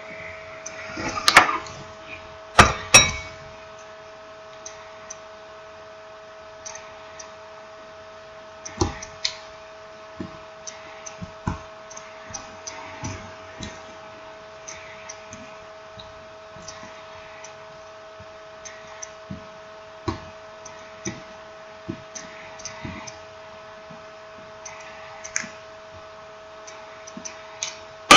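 Irregular small clicks, taps and knocks of a smartphone's parts and tools being handled on a work surface, with two louder knocks in the first few seconds, over a steady electrical hum.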